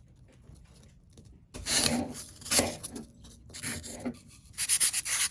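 Rasping strokes of a hand tool working a surfboard's repair patch. They start about a second and a half in and come as several irregular strokes, the last ones the loudest.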